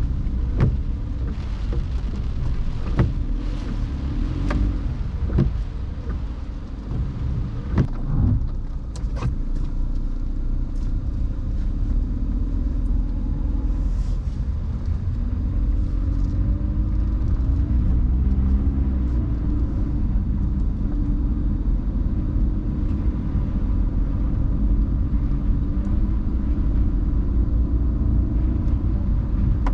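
Car driving in the rain: a steady low rumble of road and engine, with scattered sharp clicks in the first ten seconds or so and a low tone that wavers in pitch through the middle.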